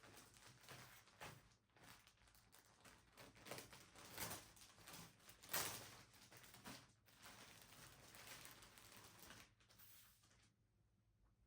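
Faint rustling and small handling knocks, irregular, with the sharpest click about five and a half seconds in; it falls to near silence in the last second.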